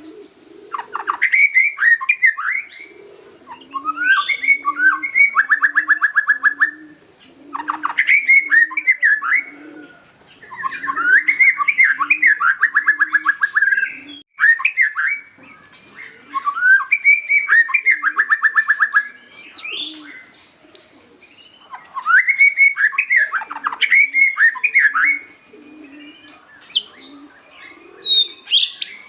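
Young white-rumped shama, just out of its speckled juvenile plumage, singing in bouts of a few seconds: clear whistled phrases and fast rattling trills, with short pauses between. A dove coos low underneath in a steady repeated rhythm, and a thin, steady high whine runs through the song.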